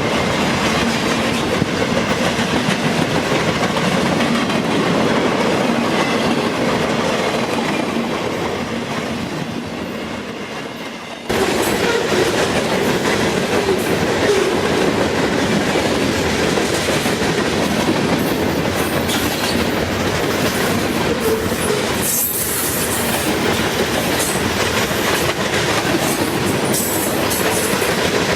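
Train cars rolling past close by, their wheels clicking and rattling over the rail joints. The sound fades for a few seconds, then cuts abruptly back to full loudness about eleven seconds in.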